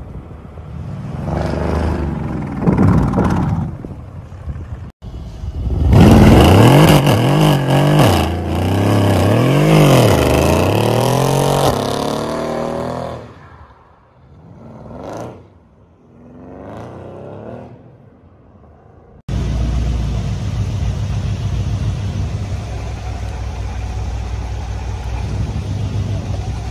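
Mercedes-AMG V8 engines from several clips. First, revving up and down while a car drifts through snow. Then a much louder stretch of the engine revved repeatedly up and down during a tyre-smoking burnout, with the hiss of spinning tyres, fading out with two short revs. From about two-thirds of the way in, a steady low rumble of a V8 idling.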